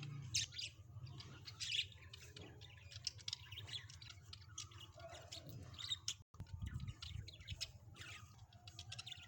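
Budgerigars chattering and chirping in quick, short, high-pitched notes.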